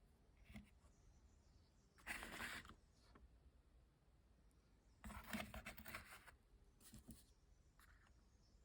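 Faint handling of small metal engine parts: two short scraping rasps, about two and five seconds in, with a few light clicks between them.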